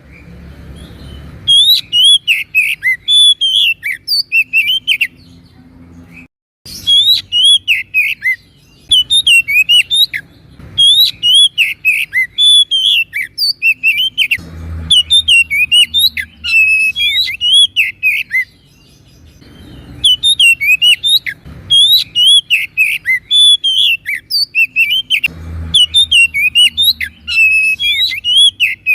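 Oriental magpie-robin (kacer) singing loudly and continuously: rapid phrases of sweeping whistled notes separated by short pauses, with a brief break in the sound about six seconds in.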